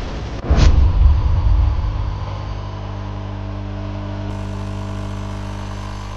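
Car engine running, with a sharp click about half a second in and a heavy low rumble for the first two seconds before it settles into a steady hum.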